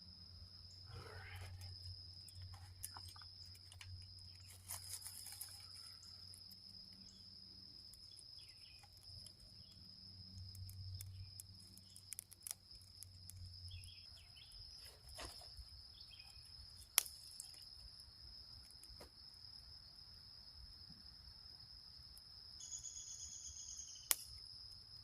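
Faint outdoor ambience: a steady high-pitched insect drone, typical of crickets, with scattered small clicks and crackles from a newly lit campfire catching. A short buzzing call sounds near the end.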